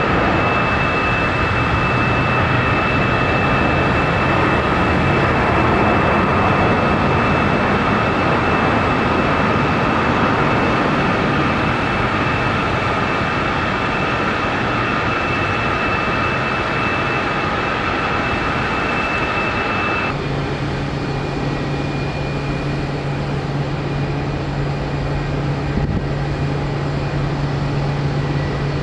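Jet airliner engines running loud and steady, with a high turbofan whine over a rushing noise. About twenty seconds in, the whine cuts off abruptly and a steady low hum takes over.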